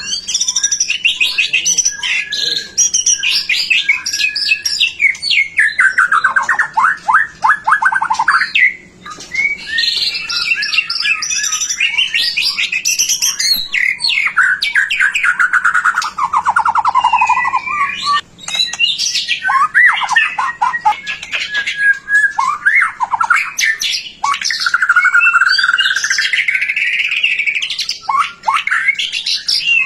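White-rumped shama (murai batu) in full, continuous song: a fast, varied run of whistles, chirps and trills. Twice, rapid strings of notes sweep down in pitch.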